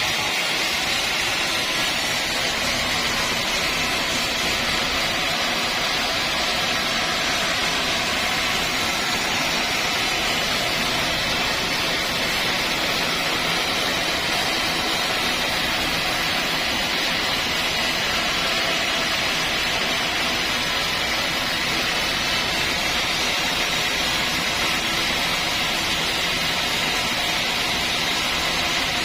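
Sawmill machinery running steadily: a constant, even rushing noise with no breaks or changes in level.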